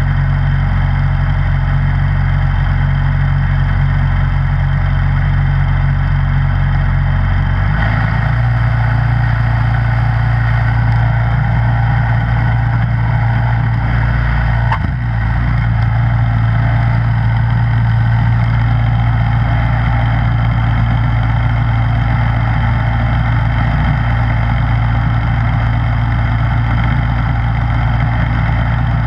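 Gas snowblower engine running steadily. Its low tone shifts slightly about eight seconds in, with a brief dip and click around fifteen seconds in.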